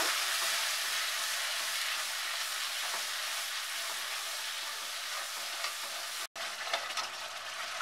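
Tomato-and-spice masala sizzling in hot ghee in a metal kadai, a steel spatula stirring and scraping against the pan as the masala is fried down. The sound cuts out for an instant about six seconds in.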